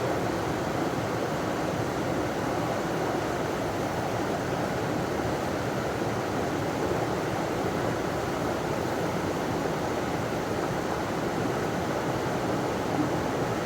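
River water running over a small waterfall, a steady rushing noise that stays even throughout.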